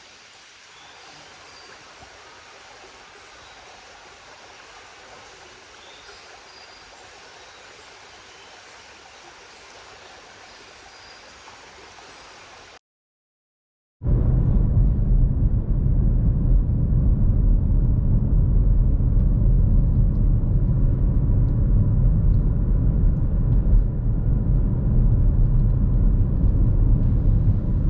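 Strong wind rumbling and buffeting against the microphone, loud and heavy in the low end. It comes in abruptly about halfway through, after a brief gap of silence. Before that there is a much softer, steady rush of wind outdoors.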